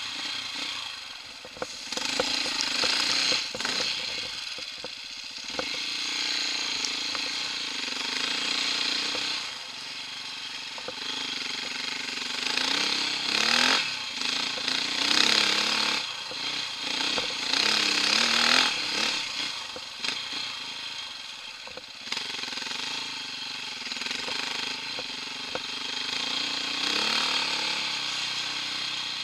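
Off-road motorbike engine revving up and down under load, with several rising revs, heard from the rider's helmet.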